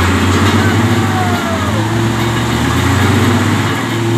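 A heavy truck's engine running steadily at low revs. The pitch steps up slightly about two seconds in, as the revs rise.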